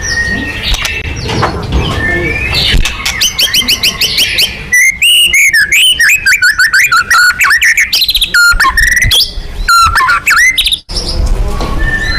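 White-rumped shama (murai batu) song: a loud, fast run of varied whistles and trills that begins about five seconds in and stops abruptly near eleven seconds. Before it, a busier mix of other bird chirps over a low rumble.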